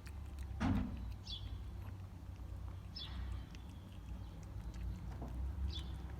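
A small bird peeping a short, high, falling chirp three times, a second or two apart, over a low steady rumble. A dull thump comes just under a second in, and faint scattered clicks run through.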